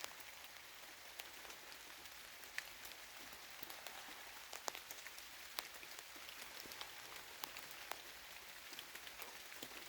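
Light rain pattering on tree leaves: a steady soft hiss with scattered individual drops ticking sharply, a few of them louder.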